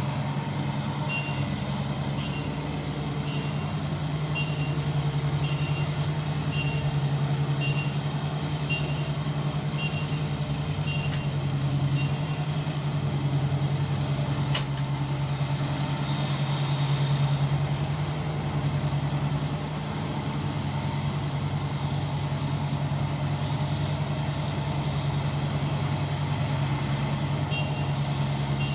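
ISEKI rice harvester's engine running steadily under working load. A high electronic beep repeats about once a second for the first ten seconds or so, and again near the end.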